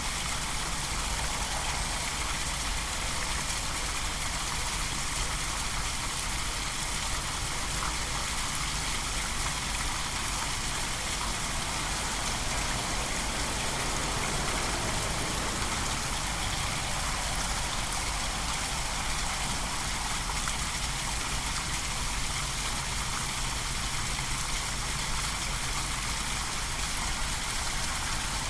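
Steady outdoor nature ambience: a constant, even hiss with a low rumble underneath, unchanging throughout.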